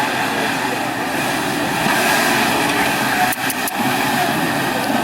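Off-road 4x4's engine running steadily, with a few sharp knocks about three and a half seconds in.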